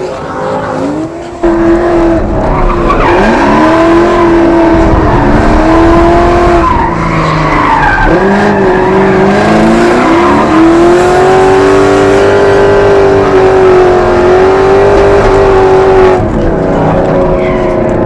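Drift car's engine revving hard, its pitch rising and falling as the driver works the throttle through a drift, with tyres skidding and squealing. The engine gets suddenly louder about a second and a half in.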